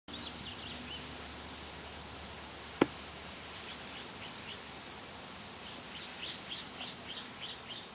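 Birds chirping: a few short calls near the start, then a regular series of short chirps, about three a second, through the second half, over a steady hiss. A single sharp click about three seconds in is the loudest sound.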